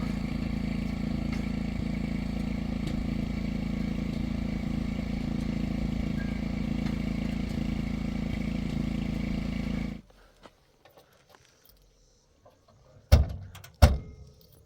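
Engine running steadily, cutting off abruptly about ten seconds in. Two sharp knocks follow, a little under a second apart.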